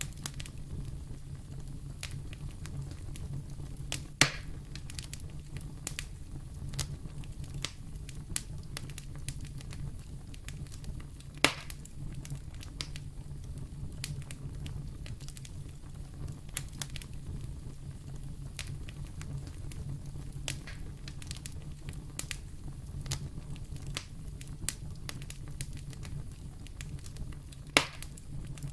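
Fire in a fireplace burning steadily: a low, even rumble under constant small crackles, with three louder sharp pops, the first about four seconds in, another near the middle and the last near the end.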